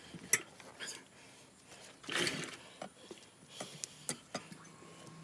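Motorcycle tyre bead being forced over the wheel rim: scattered clicks and knocks with a short rubbing scrape about two seconds in.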